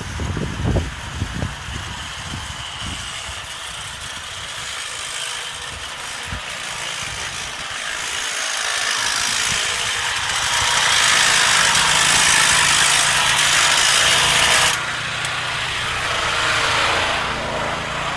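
A motor running in the street, with a loud rushing hiss that builds over several seconds and cuts off suddenly about fifteen seconds in, then swells again near the end. A few low thumps of wind on the microphone come at the start.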